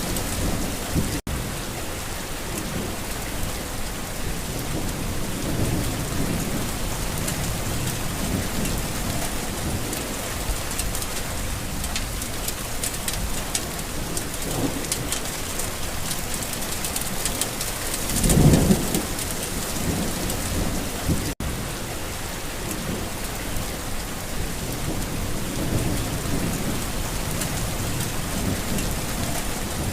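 Steady rain falling on a garden, with low thunder rumbling throughout and one louder roll of thunder about two-thirds of the way through. The sound drops out for a split second twice.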